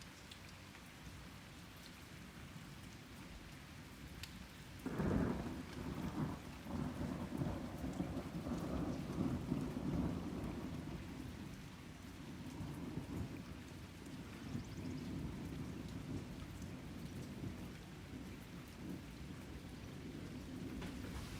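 Thunder during steady rain: a sharp crack about five seconds in, then a long low rumble that rolls on in swells for several seconds and slowly fades under the hiss of falling rain.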